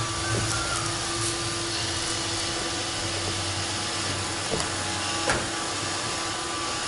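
Roomba 531 robot vacuum running: a steady motor hum and brush whir, with a few light clicks, one sharper about five seconds in.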